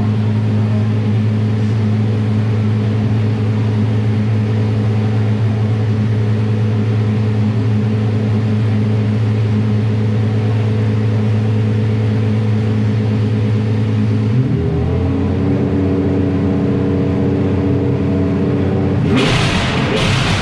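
Apollo IE's V12 engine idling steadily. About two-thirds of the way through, the idle steps up to a slightly higher pitch, and near the end the engine is blipped in a couple of short, sharp revs.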